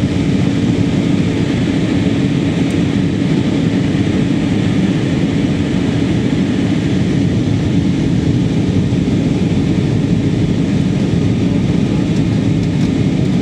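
Airliner cabin noise heard from inside the passenger cabin: a steady rush of engine and airflow noise with a constant low hum beneath it, unchanging throughout.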